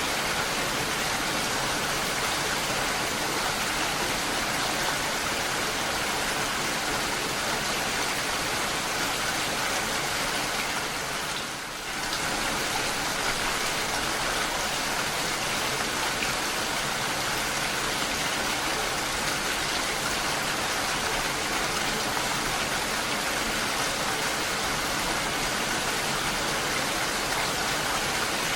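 Steady rain falling, an even, dense hiss of drops with no thunder. The level dips briefly a little before halfway through, then returns to the same steady hiss.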